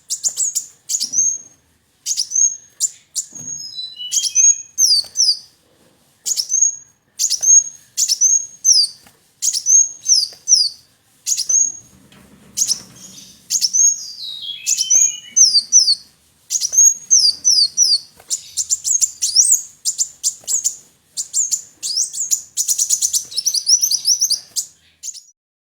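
Kolibri wulung sunbird singing: high, thin, downward-slurred chirps in quick phrases with short pauses, running into a denser, faster twittering near the end.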